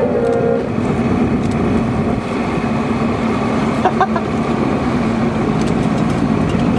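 Motorboat engine running steadily under way, with a continuous rush of noise and a steady low hum.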